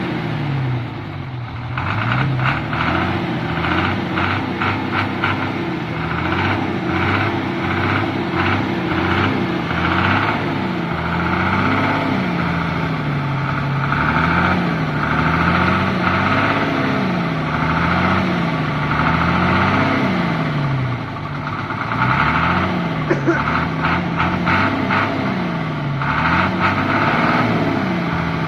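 Six-cylinder Hino truck diesel engine revving up and falling back over and over, about once every two seconds, as the bogged truck is worked to climb out of deep mud. The revs ease off briefly about two-thirds of the way through.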